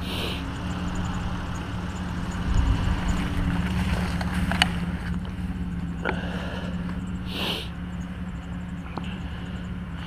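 A vehicle engine idling steadily with a low, even hum, with a few light clicks over it.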